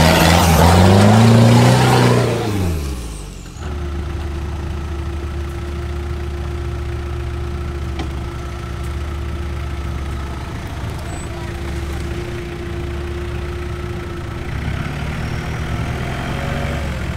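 Off-road 4x4 engine revving hard, its pitch climbing and then falling away over the first three seconds or so. It then cuts abruptly to a steady engine idle, a constant low hum.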